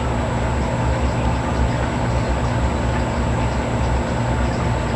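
A steady low mechanical rumble with a constant hum, like an engine or machine running.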